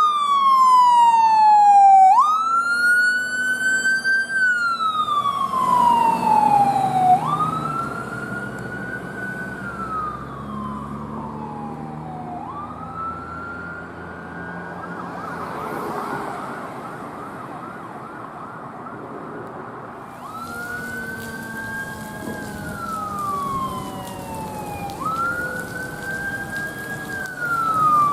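Emergency vehicle siren sounding a wail: each cycle climbs quickly and falls away slowly, repeating about every five seconds, with a brief faster warble near the middle. Vehicle engine noise runs underneath.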